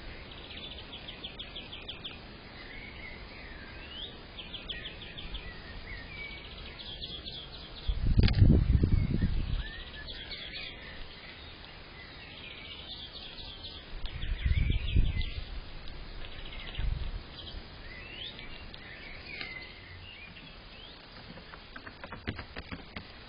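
Small birds chirping and twittering in repeated short calls and quick trills, picked up by a Blink Mini camera's small microphone. Dull low thumps or rumbles come three times, the loudest about eight seconds in, another around fifteen seconds and a brief one near seventeen seconds.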